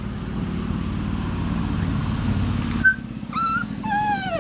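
A puppy whimpering, two short high whines near the end, the second sliding down in pitch, over a steady low rumble, with a sharp click just before the whines.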